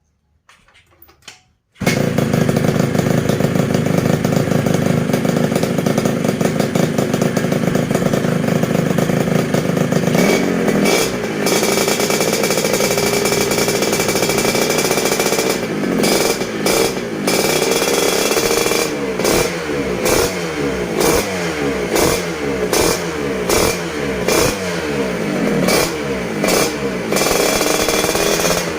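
Yamaha Mio scooter's single-cylinder engine starting suddenly about two seconds in and running steadily, then revved over and over from about ten seconds on, its pitch rising and falling with each blip.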